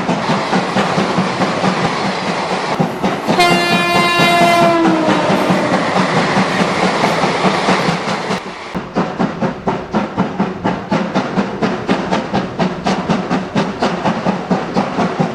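A train running with a steady rumble and hum, sounding its horn once for about a second and a half, about three and a half seconds in. From about halfway through, a regular clickety-clack of wheels over rail joints comes in at roughly three to four beats a second.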